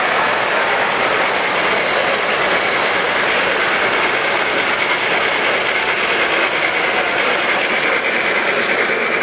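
Model train running on a layout: a steady rushing noise with a faint whine and light fine clicking.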